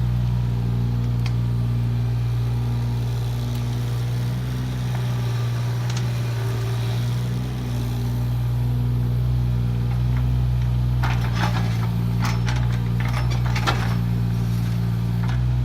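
Kubota KX018 mini excavator's diesel engine running steadily. It eases briefly about halfway through, and a run of sharp clatters comes in the last third.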